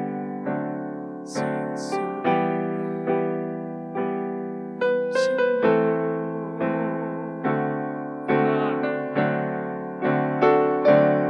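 Electric piano playing slow, soft chords, a new chord struck about once a second and each fading before the next.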